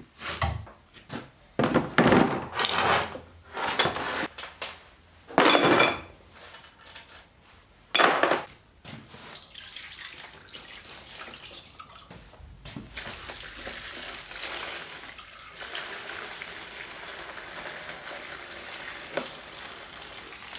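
Dismantled steering box parts being washed clean. Metal parts knock and rattle, with several short loud rushes of liquid in the first half, then a steady rush of running water through the second half.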